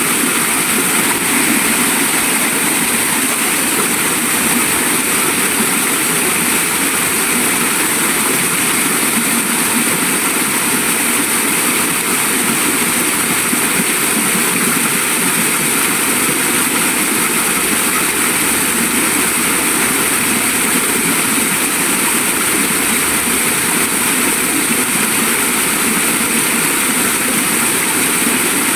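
Waterfall: a steady rush of falling water, loud and unchanging.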